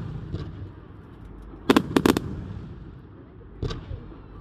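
Fireworks going off: a rapid burst of about four sharp bangs around two seconds in, then a single weaker bang near the end.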